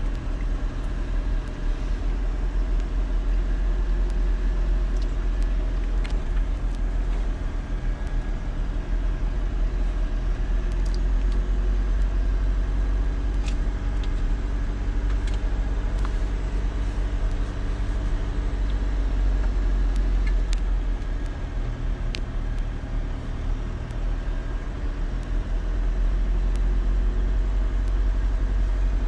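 A steady low rumble of a running engine, with a few faint clicks scattered through it.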